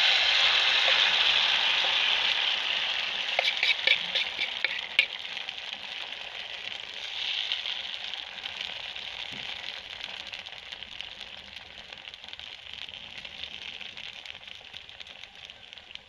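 Cabbage and egg batter sizzling in hot oil in an aluminium frying pan. It is loudest as it hits the oil and slowly dies down, with a few sharp clicks of a metal spoon against the pan a few seconds in.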